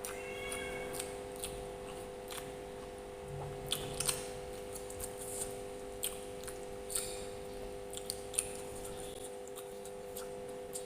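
Close-up eating sounds: chewing with wet mouth smacks and short crisp clicks, irregular, over a steady low hum.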